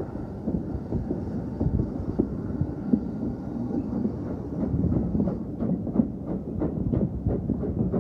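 Train running on a heritage steam railway: a steady low rumble, joined about halfway through by a regular run of sharp beats, about three a second.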